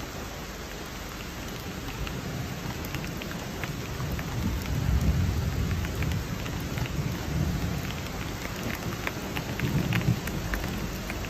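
Rain falling steadily, with many individual drops ticking close by. A low rumble swells about four seconds in and again near ten seconds.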